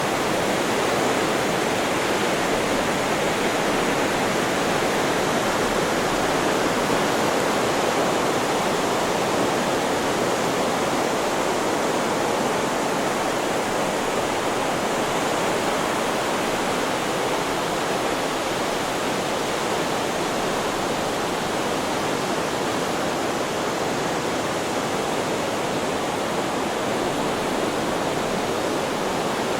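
Steady, unchanging rushing hiss of a white-noise sleep track, with no rise and fall of breaking waves.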